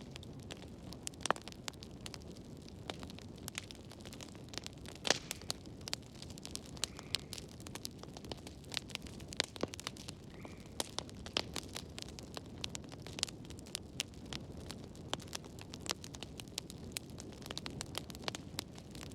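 Wood fire burning in a fireplace, crackling with frequent irregular pops and snaps over a low, steady rumble of flame.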